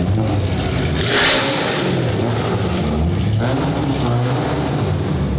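Car engine running with a deep, steady exhaust rumble, revved up sharply about a second in and again briefly near three and a half seconds.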